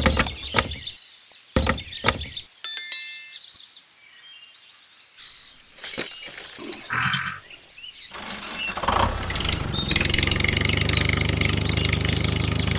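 Scattered clicks and short high chirps with quiet gaps, then a small engine starts running steadily about eight seconds in.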